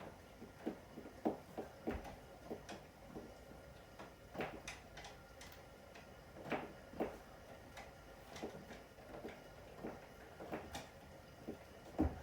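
Irregular light clicks, taps and knocks from tools and metal parts being handled, with a louder knock near the end.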